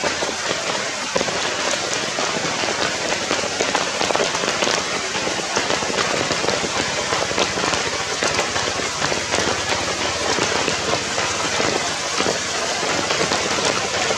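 Steady rain falling on wet ground and leaf litter: a dense, even hiss of many fine drop ticks.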